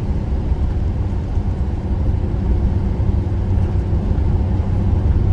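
Steady low rumble of road and engine noise inside a moving vehicle's cabin at highway speed.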